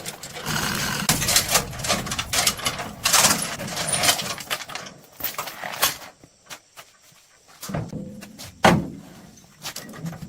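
Hand work on metal: several seconds of dense scraping and clattering, then quieter, with a few separate sharp knocks, the loudest about three-quarters of the way in.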